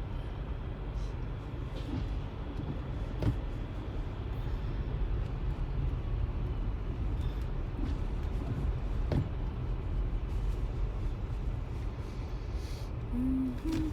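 Steady low rumble of a car's engine and road noise heard from inside the cabin in heavy traffic, with a few faint clicks and a brief low tone near the end.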